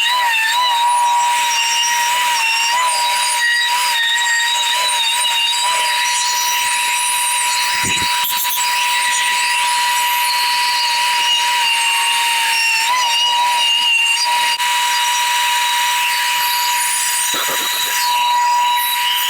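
High-speed air-powered carving tool running with a steady high whine, its pitch wavering in the first few seconds and again briefly about two-thirds through as the bit works the wood.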